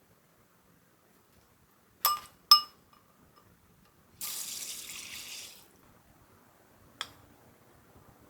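Two ringing clinks of glass or ceramic in quick succession, then a sink tap runs for about a second and a half, then a single sharp click.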